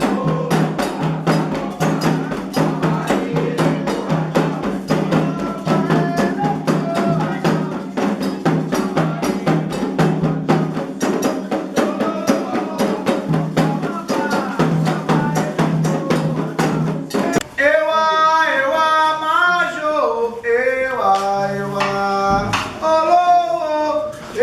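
Candomblé ritual drumming on atabaque hand drums with chanting. About seventeen seconds in, the drums stop and a single voice sings on alone.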